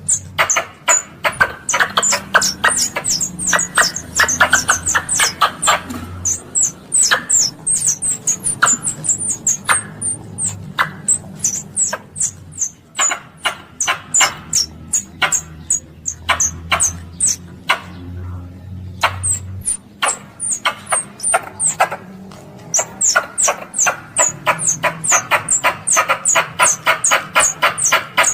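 Squirrel calling: a long series of sharp chirps, about four to five a second, each with a high falling squeak, broken by short pauses twice in the middle.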